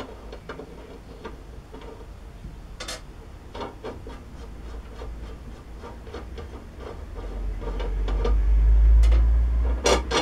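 Light clicks and knocks of metal lathe parts, such as the leadscrew, being handled on the bench. A deep rumble swells over the last few seconds and is the loudest sound, with a cluster of sharper knocks near the end.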